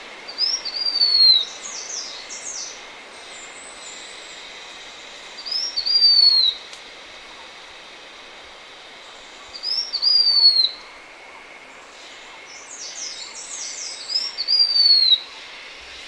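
Blue-winged minla singing: four high, thin whistled phrases, about four to five seconds apart. Each is a short upslurred note followed by a longer down-slurred whistle, and quicker higher notes come with the first and last phrases, over a steady background hiss.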